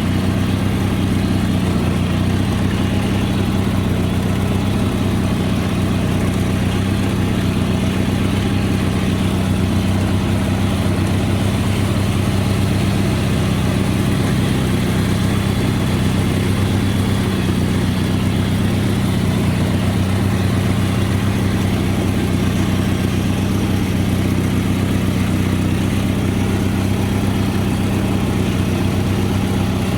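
Garden tractor engine running steadily at an even speed while the tractor drives slowly.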